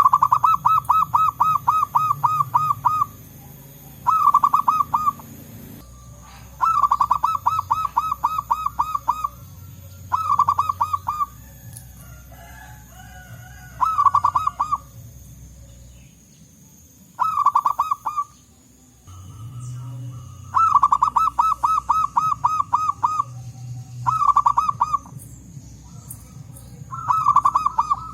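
Zebra dove (perkutut) calling: bouts of quick repeated cooing notes, about four a second, each bout lasting one to three seconds. The bouts come again and again with short pauses between them. A low steady hum runs underneath.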